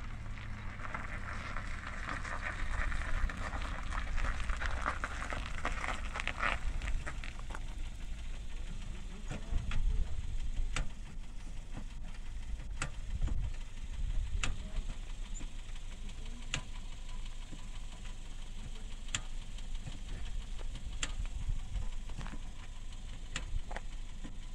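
Kia Picanto hatchback's engine running at low speed as the car manoeuvres slowly, a steady low rumble. A hiss sits over it for the first seven seconds or so, and sharp ticks come about every two seconds in the second half.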